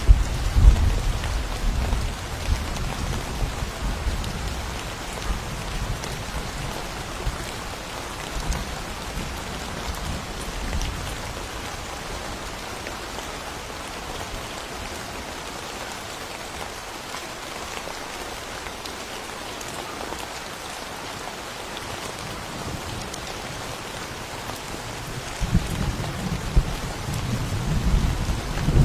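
Steady rain falling, with a low rumble of thunder at the start that dies away over the first several seconds. A new roll of thunder begins near the end.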